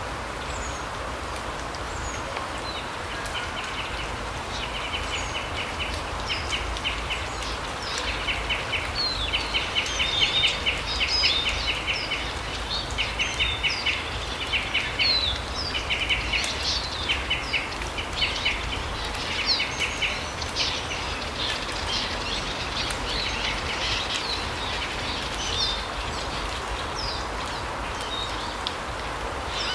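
Small forest birds calling: many short, rapid trills and scattered high chirps, thinning out after about twenty seconds, over a steady background hiss.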